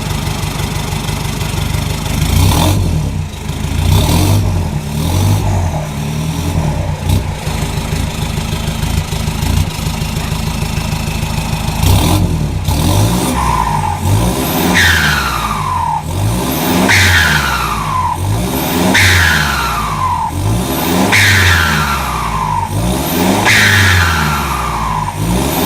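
Toyota Hilux Vigo pickup's engine heard through an aftermarket performance exhaust that exits in front of the rear axle: idling with a few light blips of the throttle, then, from about halfway in, revved again and again roughly every two seconds, each rev rising and falling away.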